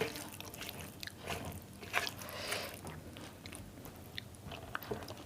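A person chewing a mouthful of food close to the microphone, with scattered small clicks and wet mouth smacks.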